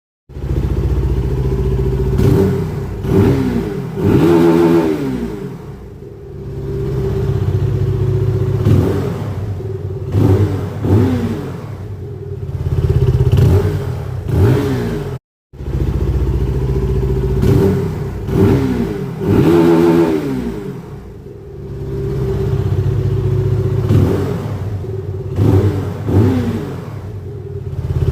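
SBM 250s motorcycle engine, brand new and on its original stock exhaust, idling with repeated throttle blips that rev up and fall straight back, now and then held a little longer. The sound cuts out for a moment about halfway and the same run of blips starts again.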